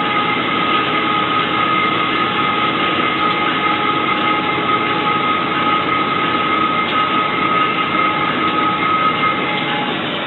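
Locomotive running along the track, heard from the cab: a steady rolling noise with a faint steady whine over it.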